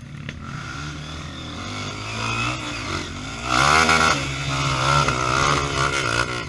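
Trail motorcycle engine revving, its pitch rising and falling as the throttle is worked, and getting louder about three and a half seconds in.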